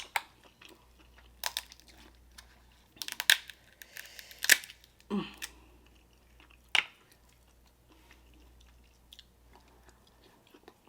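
Close-miked eating sounds: chewing and biting into Dungeness crab, with scattered sharp clicks and crunches in the first seven seconds and quieter chewing after.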